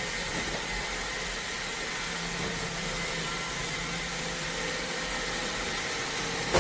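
iRobot Roomba Combo robot vacuum running with a steady whirring hum and hiss.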